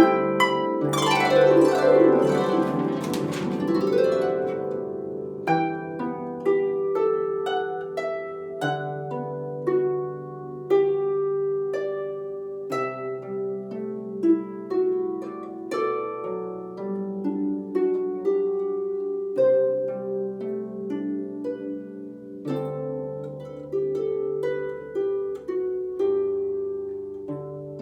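Solo harp playing a melody of plucked notes over a low bass line, with a dense sweeping flourish across the strings about a second in that lasts a few seconds.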